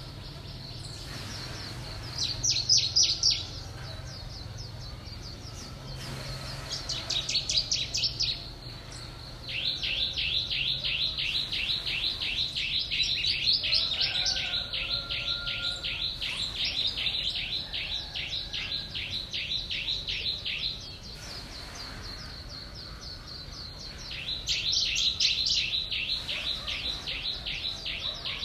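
A bird calling in bursts of rapid, evenly repeated chirps: short bursts a couple of seconds in and again around seven seconds, a long unbroken run of about ten seconds in the middle, and another burst near the end.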